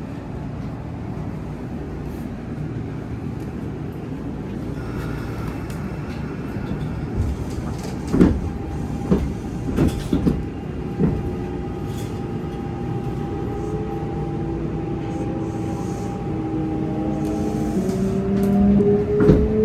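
Kintetsu Osaka Line electric train heard from on board: a steady low rumble, a few sharp knocks about eight to eleven seconds in, then the Hitachi GTO VVVF inverter's whine setting in and rising in pitch near the end as the train starts to accelerate.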